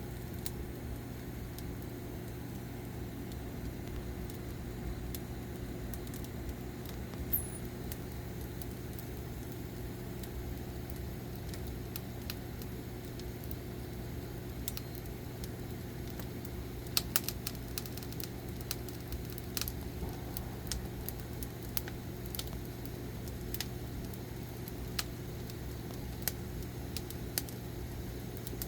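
Firewood burning, crackling with scattered sharp pops and snaps, a quick cluster of them about seventeen seconds in, over a steady low hum.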